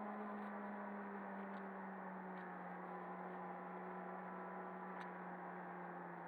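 Snowmobile engine running steadily, its pitch sinking slowly as the revs ease off.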